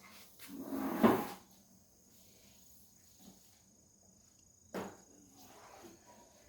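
Handling noises: a short scraping swell ending in a sharp knock about a second in, then another short knock near five seconds.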